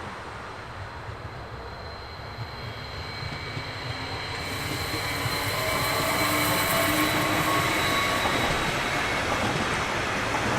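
A train approaching on the track, growing steadily louder over several seconds, with thin squealing tones from the wheels over its running noise.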